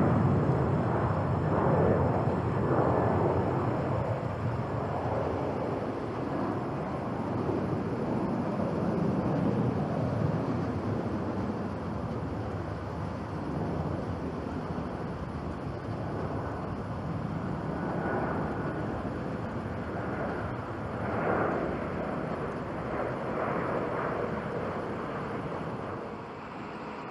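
Jet engine noise of a departing Boeing 737-800 converted freighter with CFM56-7B turbofans: a rough, wavering rumble that fades steadily as the aircraft climbs away.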